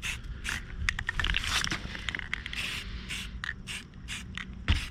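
Quick, repeated scraping strokes of paint being worked onto a powder-coated metal bird feeder, several a second. A single sharp knock comes near the end.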